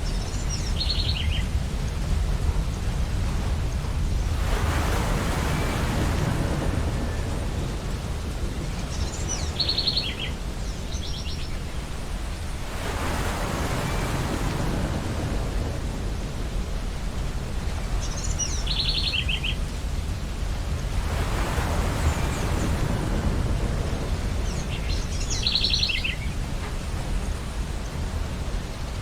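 Ocean waves washing onto a beach, a swell of surf about every eight seconds over a steady low rumble. Short bursts of high bird calls come four times between the waves.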